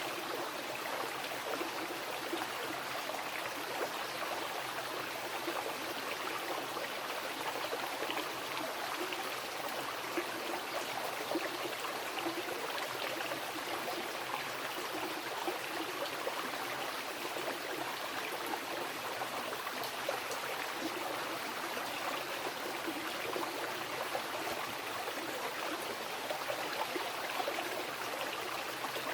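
Mountain river flowing over rocks: a steady rush of water with constant splashing and gurgling.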